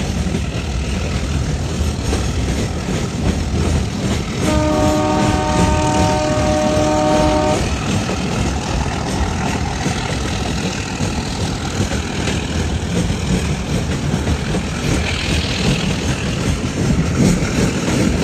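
Steady rumble of a moving train, with the train's horn sounding once for about three seconds, about five seconds in.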